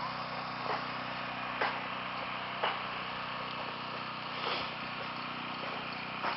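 An engine running steadily with a low hum, with five short sharp knocks at irregular intervals of about one to two seconds.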